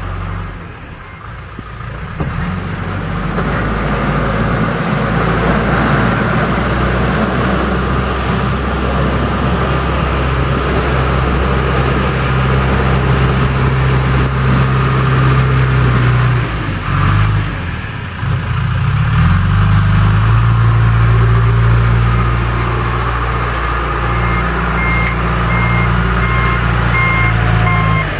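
John Deere 310E backhoe loader's diesel engine working under load. The revs climb in the first few seconds, drop briefly about two-thirds of the way through, then pick up again. Near the end the machine's reversing alarm beeps steadily as it backs up.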